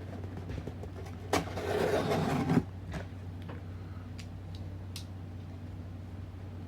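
Cardboard shipping box being torn open: one loud ripping sound lasting about a second, starting about a second and a half in, followed by a few small clicks and rustles of handling.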